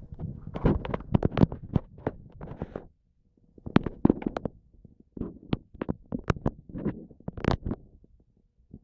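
Irregular clicks and knocks with low rumbling between them, pausing briefly about three seconds in and again near the end.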